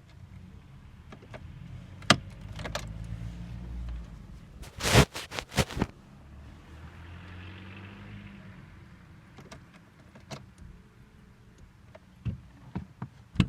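Sounds from a VW Bora being readied for a hard cold start: a low drone for a few seconds, a quick cluster of loud sharp clicks about five seconds in, another low drone, then a few scattered clicks near the end.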